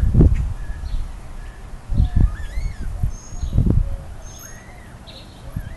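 Songbirds chirping, with short whistled notes that slide up and down in pitch. A few low thumps on the microphone, near the start and about two and three and a half seconds in, are the loudest sounds.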